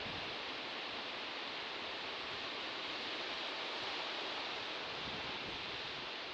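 Sea surf washing in a steady, continuous hiss that swells gently midway.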